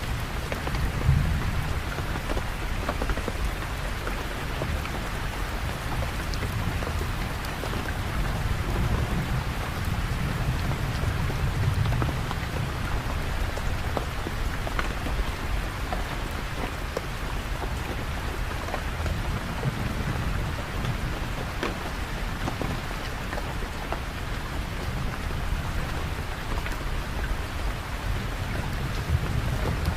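Steady heavy rain falling on surfaces, with scattered individual drop ticks, under low rumbles of thunder that swell and fade several times.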